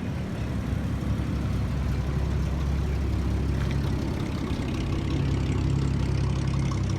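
Car engine running at low revs, a steady low hum that grows a little louder after the first second.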